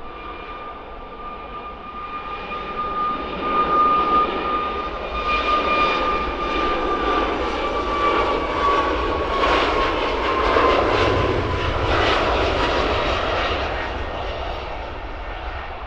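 Jet aircraft passing close by on the runway. Its engine noise swells to a peak and fades, and a high whine slowly drops in pitch as it goes past.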